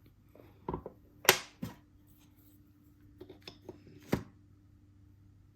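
Wooden puzzle pieces knocking and clacking against the wooden board as they are handled: several sharp knocks, the loudest about a second in, then a run of lighter clicks and one more knock near the end. A faint steady hum sits underneath.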